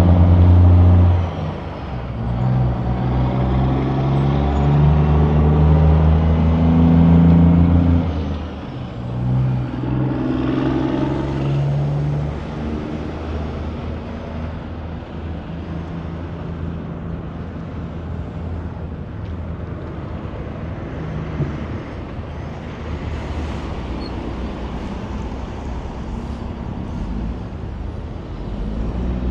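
Highway traffic: a heavy truck's engine passes close and loud for the first several seconds, a second vehicle goes by about ten seconds in, then steady road and tyre noise.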